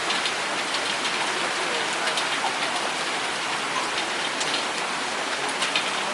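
Steady rain hiss with hail mixed in: many small, sharp ticks of hailstones striking through the downpour.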